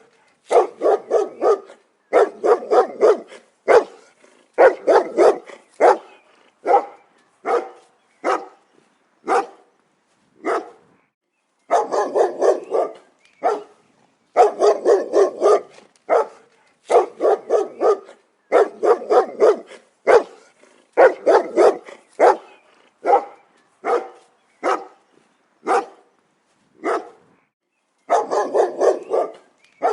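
A dog barking repeatedly in quick runs of several sharp barks, with short pauses and some single barks between the runs.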